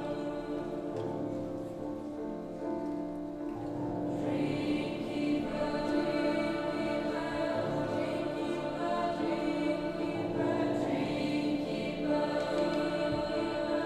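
High school choir singing, with sustained chords and overlapping voices entering in new phrases every few seconds.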